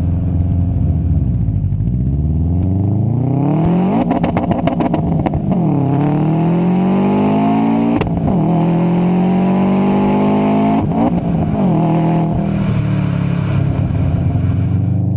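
Performance car engine and exhaust accelerating hard through the gears. The pitch climbs, then drops at each upshift, several times over, with a rapid crackle around a shift about four to five seconds in.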